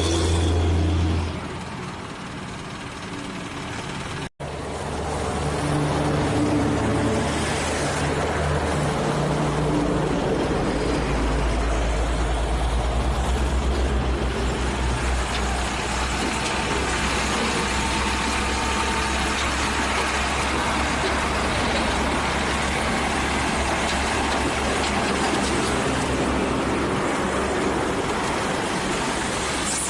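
Diesel engines of light dump trucks running steadily, with a deep engine drone; the sound cuts out briefly about four seconds in.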